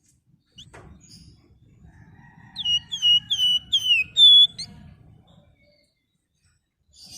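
Flamboyan songbird singing: a quick run of about six loud, clear whistled notes, each slurring downward, starting about two and a half seconds in, after one faint call near the start.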